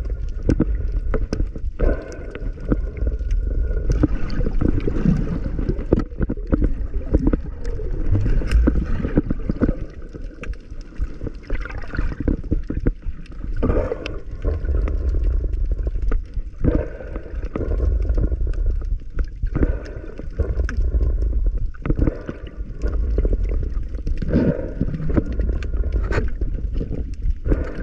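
Water sloshing and gurgling around a camera in the sea, with a low rumble and frequent small clicks and knocks.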